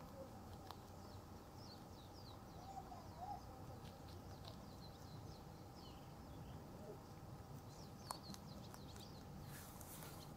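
Faint birds chirping at intervals, with a few soft crisp clicks from a rabbit nibbling a cabbage leaf.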